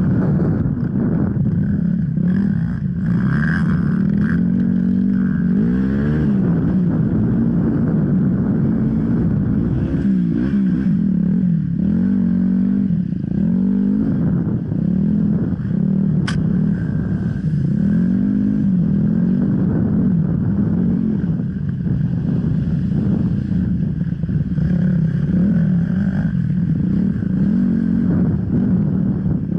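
Off-road motorcycle engine running under load, its revs rising and falling over and over as the throttle is opened and closed. There is one sharp click about sixteen seconds in.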